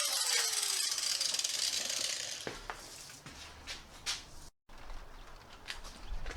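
Power tool cutting metal tube, a hissing grind with its pitch falling. It stops about two and a half seconds in, followed by a few sharp clicks and knocks of metal being handled.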